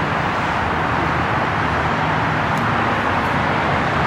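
Steady outdoor background noise, an even constant wash with no clear events.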